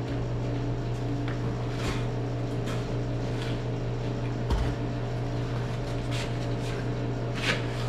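A steady low machine hum, with scattered light knocks and scrapes of metal parts being handled and one dull thump about halfway through.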